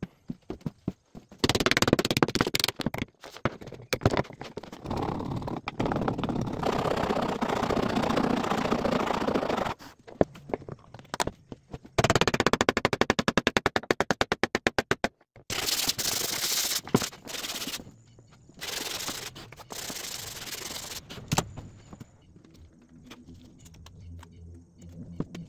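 Wood being worked by hand: several bursts of rapid back-and-forth strokes and sharp knocks with short pauses between them, including a fast even run of about seven strokes a second partway through, then quieter scratching near the end.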